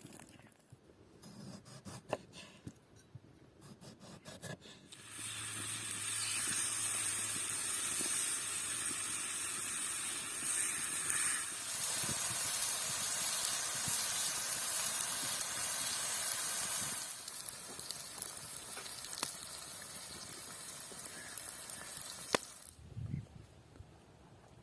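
Food frying in a hot pan: a steady sizzling hiss that starts about five seconds in and cuts off suddenly near the end.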